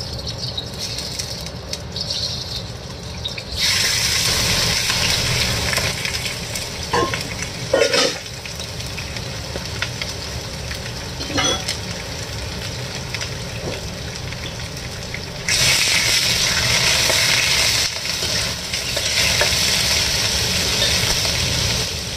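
Chicken wings frying in hot oil with ginger in a wok: a steady sizzle that jumps louder a few seconds in, with a few short knocks along the way.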